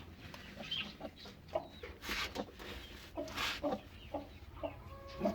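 Hen clucking in short, repeated calls, with a couple of brief rustling noises about two and three and a half seconds in.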